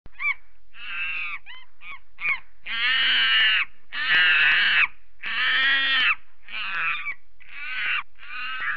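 A monkey calling: a run of about eleven harsh, hoarse calls, short ones at first and the middle ones longest at nearly a second each.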